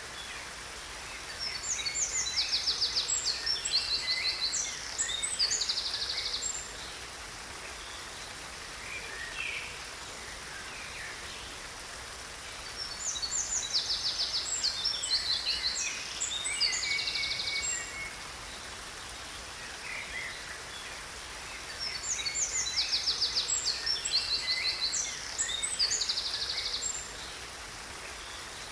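A songbird singing the same song three times, each one about five seconds of rapid high trills and chirps, about ten seconds apart, over the steady rush of a waterfall.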